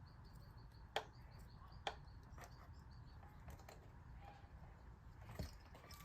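Faint, scattered clicks and taps of parts and tools being handled in an engine bay, over a low steady background. In the first half there is a faint series of short, high chirps.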